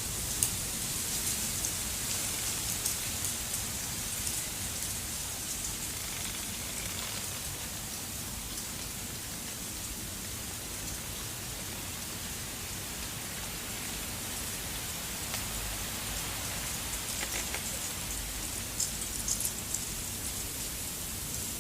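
Snowstorm precipitation pattering steadily on a surface: an even hiss with scattered small ticks, which grow busier near the end.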